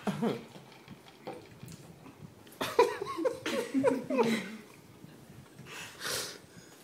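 Indistinct talking in the background, with a short hiss near the end.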